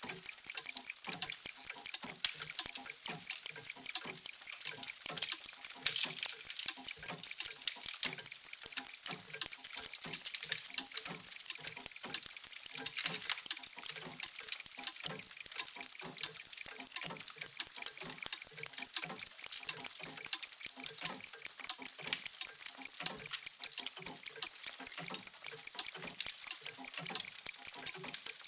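Many mechanical clocks ticking at once, their ticks overlapping into a dense, steady, even-paced clatter of sharp high clicks with lower knocks mixed in.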